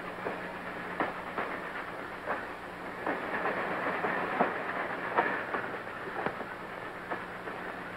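Train running on the rails: a steady rushing rumble with irregular sharp clacks of the wheels over rail joints, over a faint steady hum.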